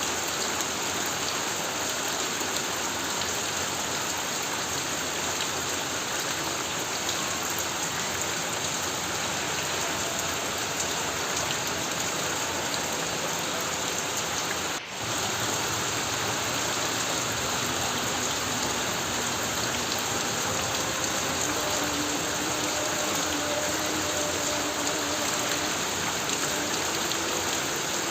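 Heavy rain pounding steadily on a corrugated tin roof, a dense unbroken hiss that drops out for an instant about halfway through.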